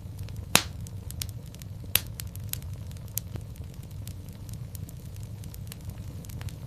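Wood fire in a fireplace crackling: a steady low rumble of flames with frequent sharp pops, the loudest about half a second in and again about two seconds in.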